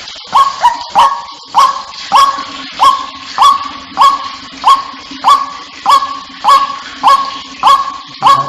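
White-breasted waterhen (ruak-ruak) calling in a steady, monotonous series of loud notes, about one and a half a second, each opening with a sharp upward snap, played as a lure call to draw the birds in.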